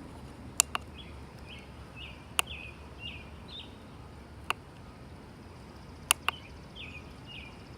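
Short bird chirps repeated about twice a second in two runs, over a faint steady outdoor background, with about six sharp clicks scattered through that are the loudest sounds.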